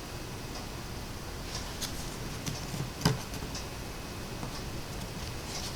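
Faint light ticks and taps of cardstock pieces being handled and set down on a craft table, with one sharper tap about three seconds in.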